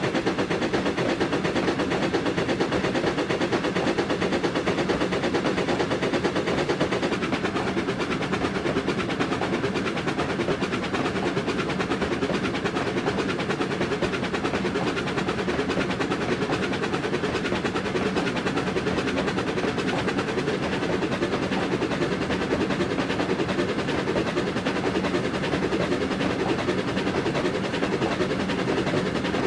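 Steam-hauled train running steadily at speed, a continuous fast rattle of rapid beats.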